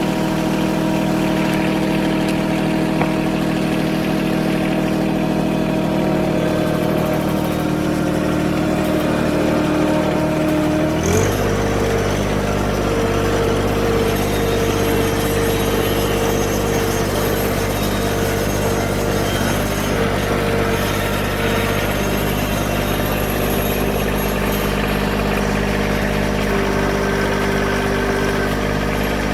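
John Deere 1023E compact tractor's three-cylinder diesel engine running steadily at idle, then throttled up to a higher, steady engine speed about eleven seconds in.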